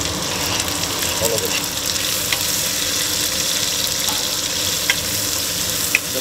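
Cubed wild pork frying in hot oil in a pan for adobo: a steady sizzle with a few sharp pops.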